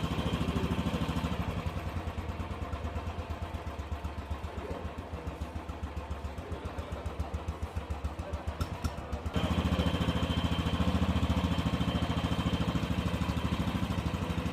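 Royal Enfield Bullet Trials 350's single-cylinder engine idling with a steady, even thump. It gets abruptly louder about nine seconds in.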